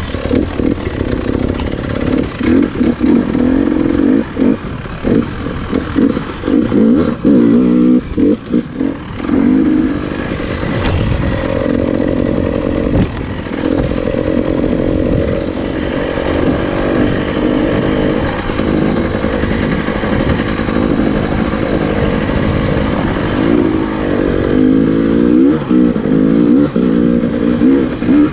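Trail motorcycle engine being ridden, its pitch rising and falling with the throttle, choppy on-off blips in the first few seconds and smoother revs up and down later.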